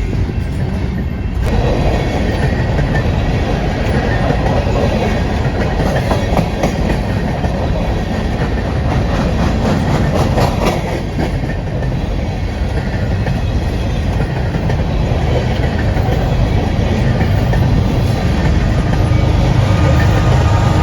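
Train passing close by: a steady rumble of wheels on rail, with a run of rhythmic clickety-clack over the rail joints in the first half. The rumble swells again near the end.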